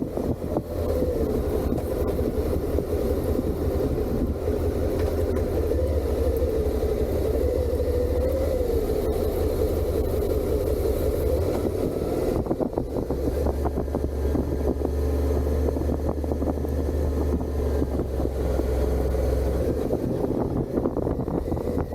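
Suzuki SV650's V-twin engine running through its stock exhaust at a steady cruise, its note wavering slightly and shifting a little about halfway through.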